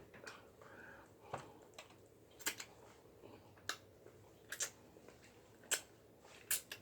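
Close-up eating sounds: a person chewing, with short sharp wet clicks and smacks from the mouth about once a second.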